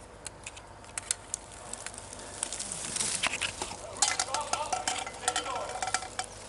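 Irregular crackling and rustling with scattered sharp clicks, growing denser and hissier through the middle.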